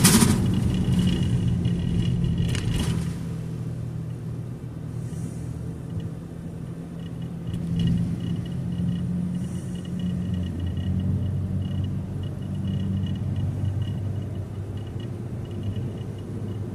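Car driving, a steady low engine and road rumble heard from inside the cabin. A sharp knock comes at the very start, with a lighter one a little under three seconds in.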